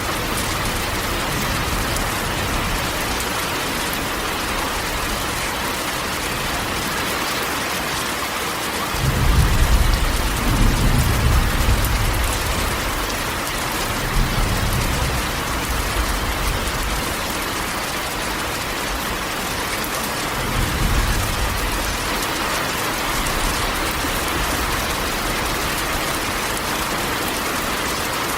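Rain falling steadily on a corrugated tin roof, an even patter. Thunder rumbles low about a third of the way in and again more briefly later on.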